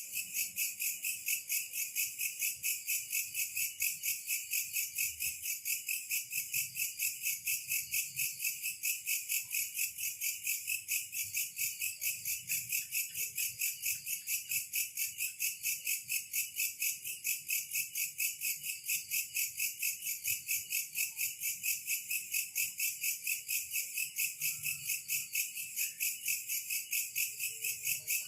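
Insects chirping in a steady high-pitched chorus, pulsing evenly at about three to four pulses a second.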